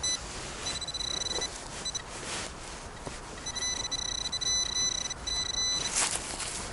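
Metal detector sounding a high-pitched target tone in several bursts as the coil sweeps over a signal: brief blips at the start and about a second in, then a longer, broken stretch from about three and a half seconds. A short rustling whoosh comes near the end.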